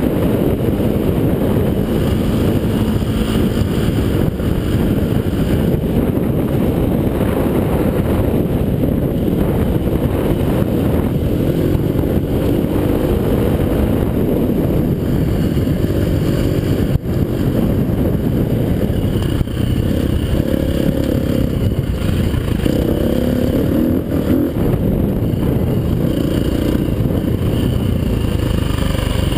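Enduro motorcycle's 350cc four-stroke single-cylinder engine heard on board while riding a dirt track. The engine revs rise and fall as the rider works the throttle, over a constant low rumble from wind and riding. A single sharp knock a little past halfway.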